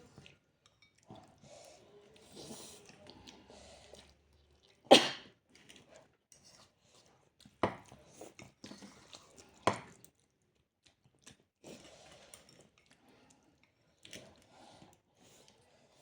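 A person spluttering from the heat of akabare chilli: three loud, sudden bursts about five, seven and a half, and ten seconds in, with quiet chewing and mouth sounds between.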